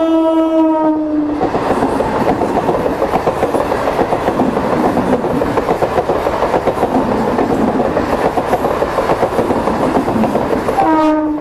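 South Eastern Railway electric local train (EMU) passing close by: its horn holds one steady note that stops about a second in, then the coaches rush past with a fast clickety-clack of wheels over the rail joints. The horn sounds briefly again near the end.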